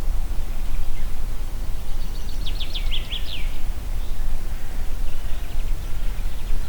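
Steady wind noise in the trees with a low rumble. A songbird sings a quick phrase of rapid high notes about two seconds in, and a fainter run of notes follows near the end.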